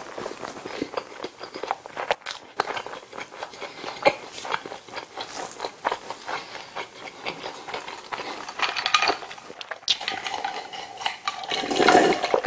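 Close-miked chewing of a mouthful of hamburger: wet smacking and irregular crackling clicks. Near the end come louder gulping sounds of drinking from a glass bottle.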